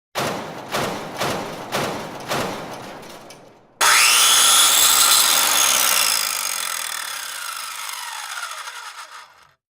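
Workshop tool sounds: about five sharp strokes half a second apart, then a power tool that starts abruptly and winds down, its pitch falling as it fades over about six seconds.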